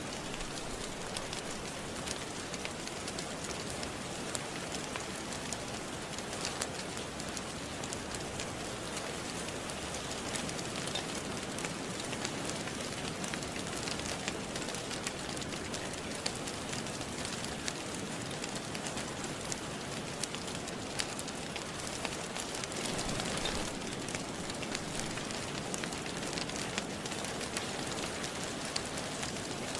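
Steady rain falling, mixed with the scattered crackles and pops of a fire in a fireplace.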